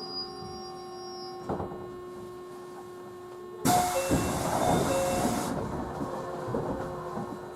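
Inside a JR Central 311 series electric train car: a steady low hum, then about halfway through a sudden loud burst of hiss that lasts nearly two seconds and cuts off abruptly.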